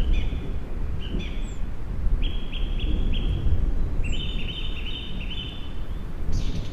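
A songbird singing short phrases of quick stepped notes, several in a row, with a thin high note now and then, over a low rumble of distant thunder.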